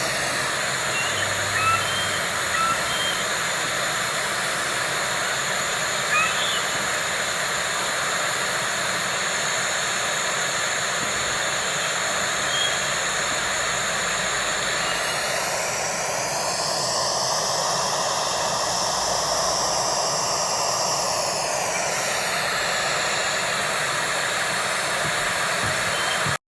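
Steady hissing outdoor background from a nest-cam microphone, with a few faint short bird chirps in the first seconds. From about 15 to 22 seconds in, a passing aircraft's whoosh swells and fades over it.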